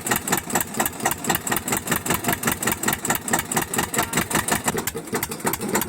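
A tractor's diesel engine running steadily, its firing pulses coming at an even beat of about nine a second.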